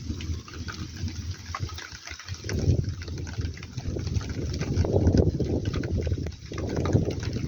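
Rain falling, crackling and hissing steadily, with low rumbling swells that rise and fade three times.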